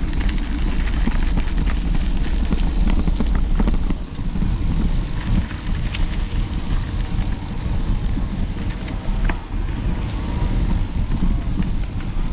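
Wind buffeting a handlebar-mounted action camera's microphone on a moving bicycle, a steady low rumble, with scattered short knocks and rattles as the bike rides over bumpy ground.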